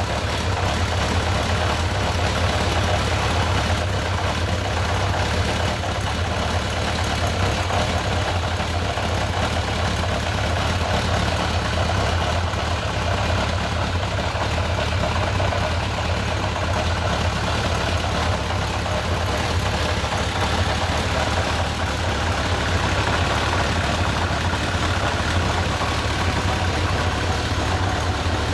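1979 Honda CB750F's air-cooled inline-four engine idling steadily, with no revving, while it warms up after a cold start.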